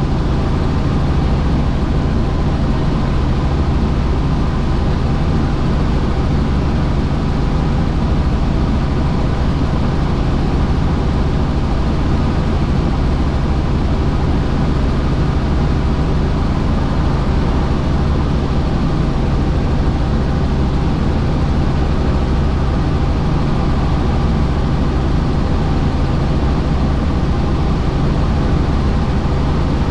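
Helicopter in flight: steady, loud drone of rotor and turbine engine with a deep low hum, unchanging throughout.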